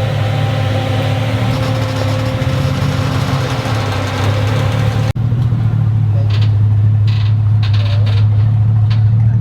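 Pickup truck engine running steadily at a low idle, heard as a strong low hum. It breaks off abruptly about five seconds in and comes straight back, with a few light knocks in the second half.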